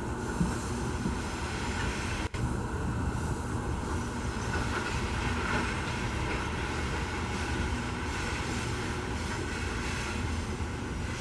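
Loaded iron-ore freight train rolling past: a steady, continuous rumble of heavy ore wagons on the rails.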